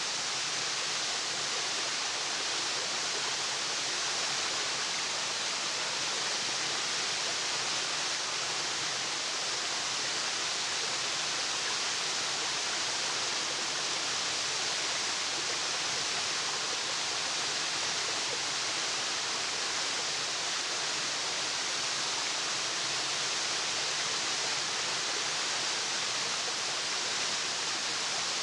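Waterfall: a steady, unbroken hiss of falling water, bright and even, with little low rumble.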